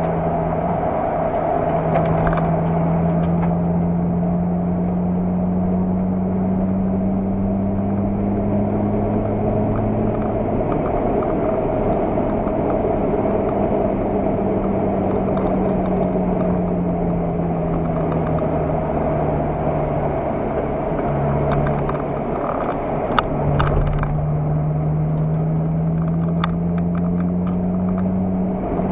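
Car engine heard from inside the cabin under sustained driving, its note slowly rising and falling with engine speed. It drops briefly about three-quarters of the way through, followed by a sharp click, then climbs steadily again.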